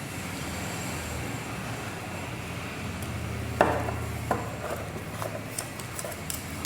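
Handling noise: one sharp knock a little past halfway, then a few lighter clicks, over a steady low hum.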